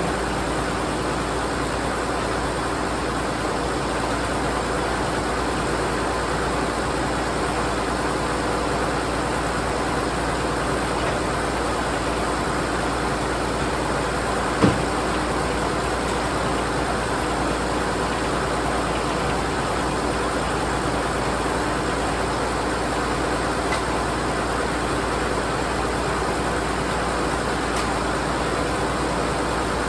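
An engine running steadily, with one sharp knock about halfway through.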